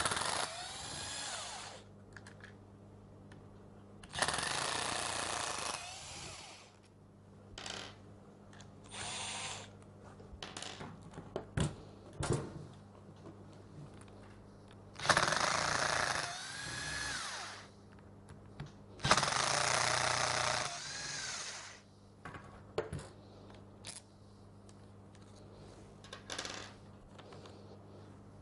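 Power screwdriver run in several short bursts, each whining up to speed, backing out the four screws that hold the gear housing cover of a Bosch GSH 5 demolition hammer. Small clicks and knocks from parts being handled fall between the runs.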